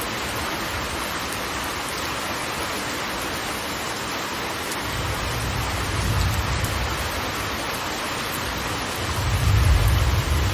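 Large waterfall: a steady, dense rush of falling water, with a deep low rumble that swells twice, about five seconds in and more strongly about nine seconds in.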